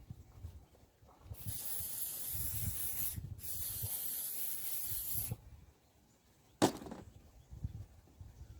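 Spraying hiss in two long bursts with a brief break between them, then a single sharp click.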